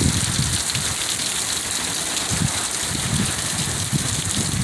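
Heavy rain pouring steadily, with gusts of wind rumbling low every second or so.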